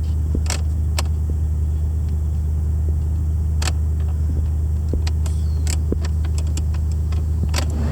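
1987 Oldsmobile 442's V8 idling steadily, heard from inside the car, with a dozen or so scattered sharp clicks from controls and switches being worked.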